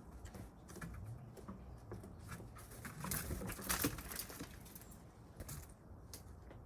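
Gray squirrel at a wooden bird feeder: a run of small clicks and scratches that grows thicker and louder in the middle, then thins out.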